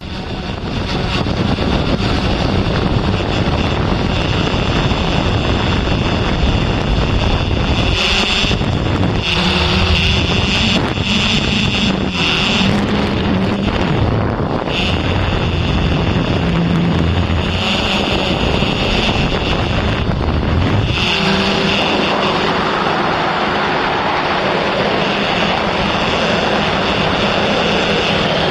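A small remote-controlled aircraft's motor and propeller running in flight, with a steady high whine and lower tones that shift in pitch as the throttle changes, over wind rushing on the microphone. The motor is pretty noisy, which the owner takes as a sign that it is worn and due for replacement.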